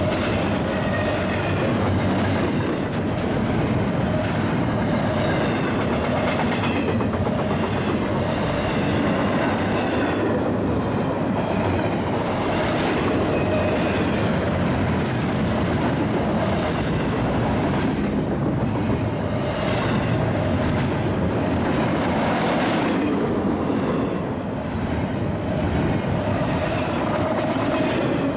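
Double-stack intermodal container freight train passing at close range, its steel wheels running steadily on the rails.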